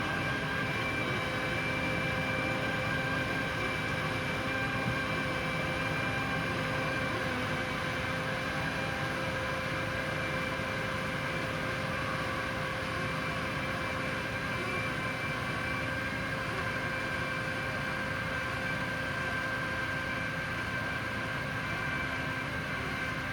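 Tractor and Standen T3 three-row trailed potato harvester running steadily while lifting potatoes: a constant mechanical din with several steady whining tones held throughout.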